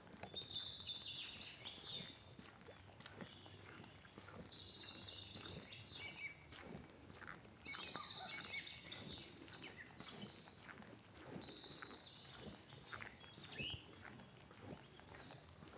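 Footsteps of a person walking along a path, with birds singing.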